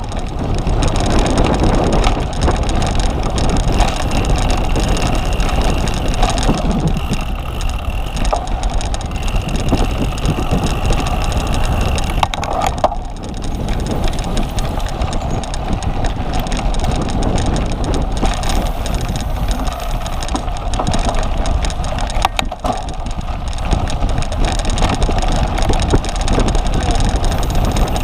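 Steady rushing wind and rolling noise from a cyclocross bike ridden over rough ground, with scattered knocks and rattles from the bike.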